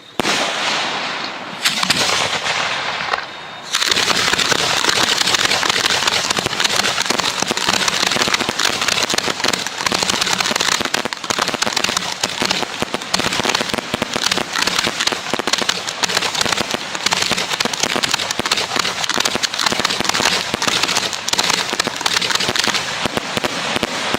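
Fireworks going off in a dense crackle of rapid pops. It starts abruptly, dips briefly about three seconds in, then carries on without let-up.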